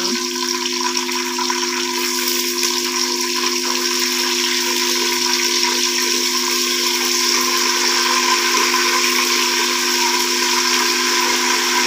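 Chicken pieces sizzling as they fry in hot oil with sliced onion and garlic, a steady loud hiss, with a steady low hum underneath.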